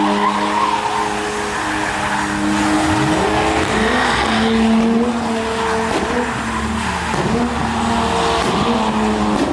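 Car engine held at high revs while its tyres spin and squeal. The revs hold steady at first, then from about three seconds in they repeatedly dip and climb again, over a continuous hiss of tyre noise.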